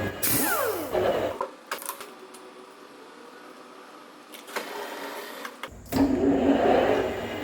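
Metal lathe machining a steel pin: the running machine winds down with a falling whine about a second in, a few seconds of quieter clicks and knocks follow, and the machine noise comes back loudly near the end.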